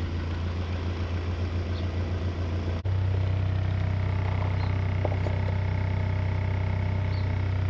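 Honda G23 hybrid four-cylinder (H23 block with H22 VTEC head) idling steadily as it warms up, a low even hum. It cuts out briefly about three seconds in and comes back slightly louder.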